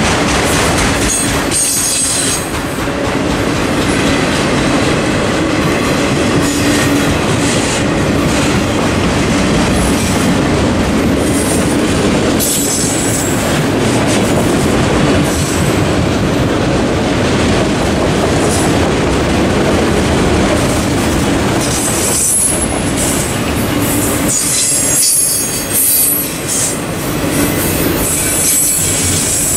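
Autorack freight cars rolling past at a level crossing, a steady rumble with wheel clatter over the rails. Short high-pitched wheel squeals come several times, most strongly a little past the middle and near the end.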